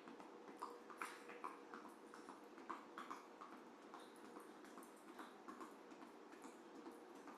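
Faint, quick footfalls of running shoes on the floor during a cardio move, about three light taps a second, over a steady low room hiss.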